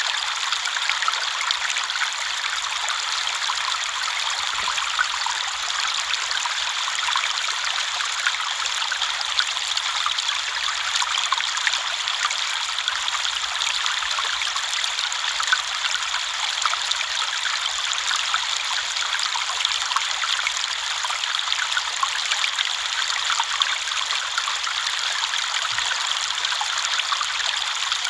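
River water flowing over and around stones, a steady rushing with fine splashing and trickling.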